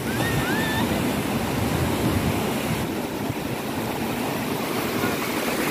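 Surf on a beach: a steady, unbroken rush of waves breaking and washing in.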